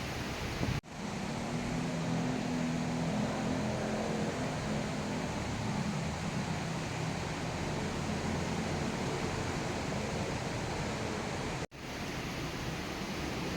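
Steady rain falling, an even hiss, broken twice by abrupt brief dropouts of the sound, about a second in and near the end.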